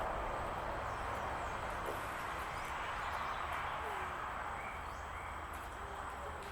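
Steady rushing outdoor background noise, with a few faint short bird chirps a little past the middle.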